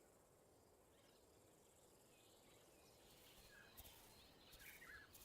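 Near silence: faint outdoor bush ambience, with a few faint short chirps in the second half.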